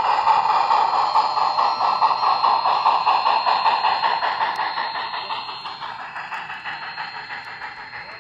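Model train running along the layout track, with a steady whirr and rapid wheel clicking that fade away over the last few seconds as the train moves off.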